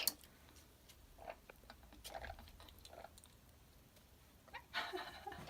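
Faint, scattered soft clicks and smacks of parrots' beaks as they drink coconut water, with a slightly louder cluster near the end.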